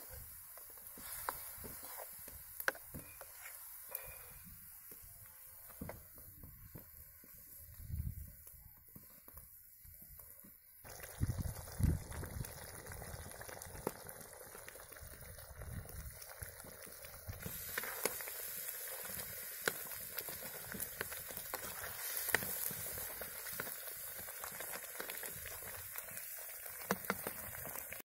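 Onion paste bubbling and sizzling in a kadai over a wood fire, with a few light taps, growing louder partway through.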